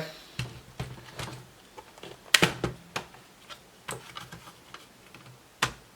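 Plastic laptop casing being handled and worked open: a string of separate clicks and knocks, the loudest about two and a half seconds in and another sharp one near the end.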